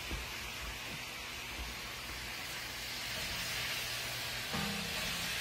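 Sliced onions, bell peppers and mushrooms sizzling steadily in a frying pan as they sauté, a little louder from about three seconds in while they are stirred.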